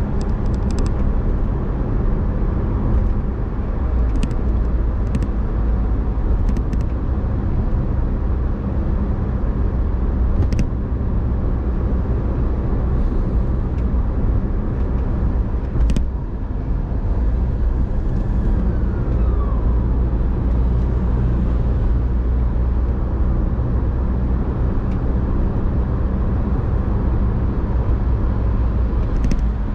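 Car driving: a steady engine drone and road rumble, with a few sharp clicks scattered through it.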